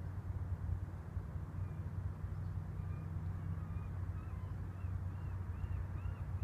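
A steady low drone, with a bird calling in short rising-and-falling notes. The calls start faintly about a second and a half in and come faster and louder toward the end.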